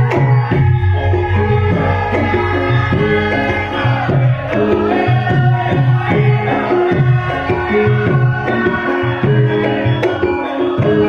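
Javanese lengger music: hand-played drum patterns over melodic instruments, continuous.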